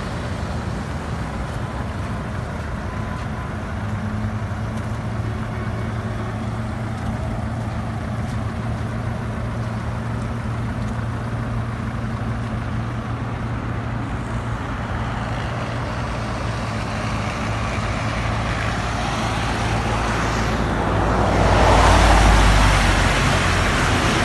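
A motor vehicle's engine running steadily, with road and traffic noise. About twenty seconds in, a louder rushing noise swells for a few seconds and then eases off.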